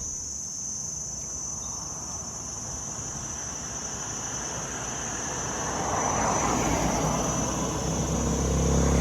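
Insects keep up a steady high buzz while a motor vehicle's engine approaches and passes close, growing louder from about halfway through and loudest at the very end.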